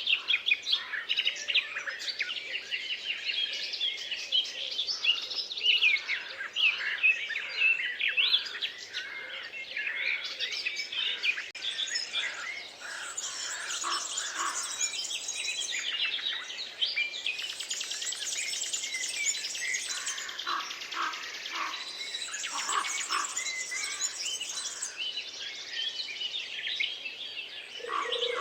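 Several songbirds singing at once in a forest chorus: dense overlapping chirps, whistles and trills, with a fast, even trill standing out about two-thirds of the way through.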